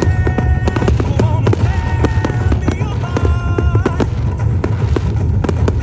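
Fireworks going off in rapid succession, many sharp bangs and crackles, over loud music with held notes from the display's sound system.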